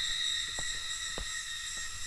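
Steady, high-pitched drone of a cicada chorus in a summer forest, with two soft low thumps about half a second and a second and a quarter in.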